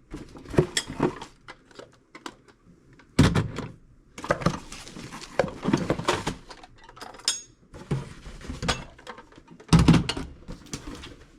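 Small metal toolboxes being handled, giving a string of irregular knocks, clunks and scraping rattles, with the heaviest clunks about three seconds in and near the end.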